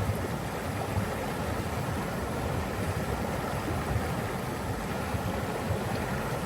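Steady rushing of flowing water, an even noise with a deep low rumble.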